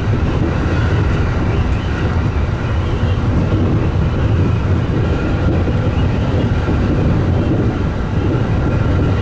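Local commuter train heard from inside the passenger car while running: a steady low rumble of wheels on the rails, with a faint steady whine above it.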